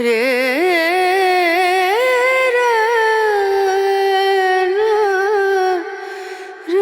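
A solo singer's voice in a slow, ornamented Indian classical-style song, with long held notes that waver and slide between pitches. The phrase breaks off a little before six seconds in and a new one starts near the end.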